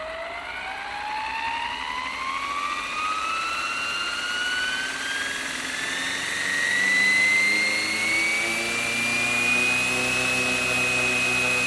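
Flywing BO-105 RC helicopter's electric motor and rotor spooling up: a whine that rises steadily in pitch and levels off near the end as the rotor reaches speed, with a lower hum building underneath.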